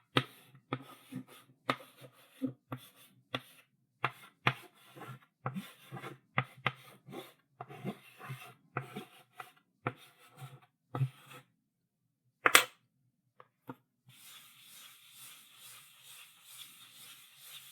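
Chalk writing on a blackboard: a quick run of short scratchy strokes and taps, then one sharp loud tap of the chalk against the board about twelve seconds in. After a short pause, a steady continuous scraping of chalk across the board runs on through the rest.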